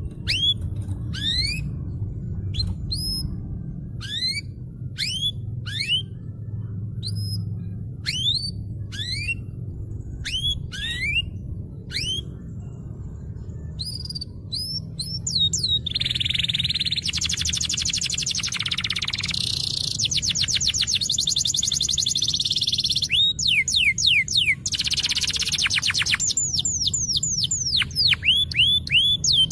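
Domestic canary singing: spaced, upward-sweeping whistled notes, then, about halfway through, a long fast trill followed by more sweeps and another rapid roll. A steady low hum runs underneath.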